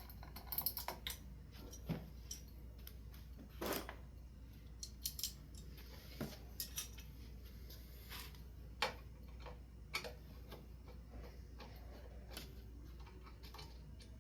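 Scattered light clicks, taps and knocks from handling small fan parts and hardware, irregular and spaced over several seconds, over a steady low hum.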